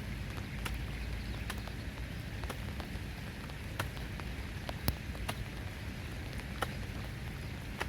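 Rain falling with a steady low rush of water, pierced by scattered sharp ticks of drops, the loudest about five seconds in.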